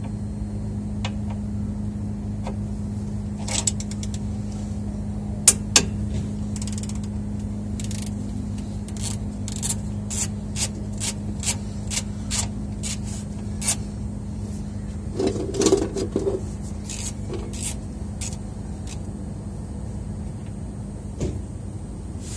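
A 15mm wrench working the oil pan drain bolt: two sharp metal clicks about five seconds in, then a run of evenly spaced clicks, about two a second, as the bolt is turned. A steady low hum runs underneath.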